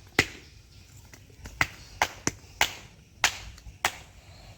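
A string of sharp knocks or taps, about eight of them at irregular spacing, as of something being struck repeatedly.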